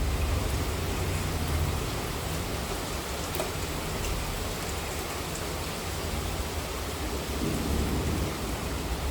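Monsoon rain falling steadily, an even hiss of drops, with a low thunder rumble that is strongest in the first two seconds and swells again near the end.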